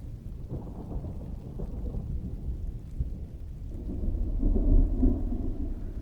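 Steady heavy rain with a low roll of thunder that swells about two-thirds of the way through and then eases.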